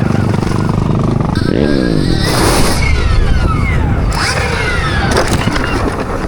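Motorcycle engine running under throttle: its pitch rises about a second and a half in, then falls in several glides over the next few seconds. Wind noise on the microphone runs underneath.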